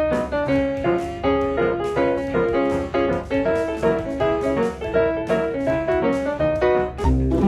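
Lively piano music, a quick run of notes; near the end the music changes to lower held tones.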